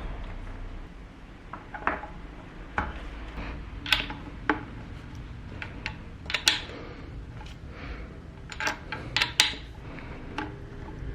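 Dishes and utensils being handled: an irregular series of sharp clinks and knocks.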